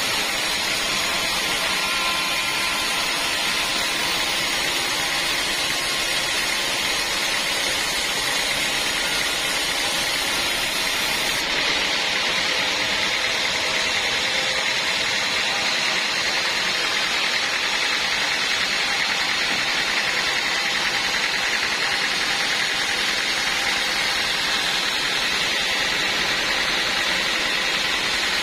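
Band sawmill running steadily, a loud even noise without breaks.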